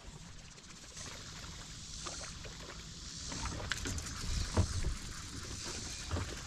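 Quiet background sound from a fishing kayak on open water: a low rumble of wind on the microphone, a hiss higher up that comes and goes, and a few faint knocks.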